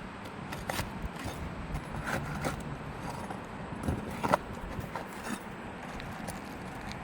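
Scattered scrapes and sharp clicks as asphalt roof shingles are worked loose and their nails pried up, during a test of whether the brittle shingles can be lifted without breaking.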